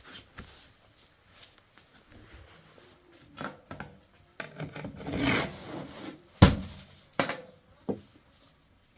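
Rubbing and scraping handling noise, swelling in the middle, with a few sharp knocks; the loudest knock comes about six and a half seconds in.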